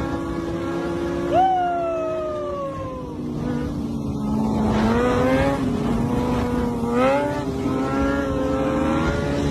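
Motorcycle engines running. Their revs rise sharply about a second and a half in and fall away over the next couple of seconds, then rise again twice, about five and seven seconds in, under a steady engine hum.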